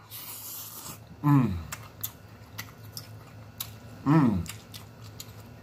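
A man chewing a mouthful of sauerkraut and beef sausage, with wet mouth clicks and smacks. A breathy hiss comes in the first second, and two short falling "mmm" hums of enjoyment come about a second and four seconds in.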